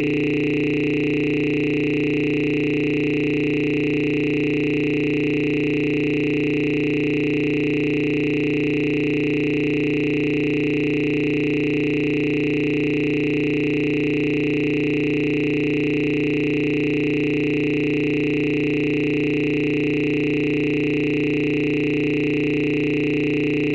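A steady electronic drone of several held tones, low and high together, that never changes or breaks.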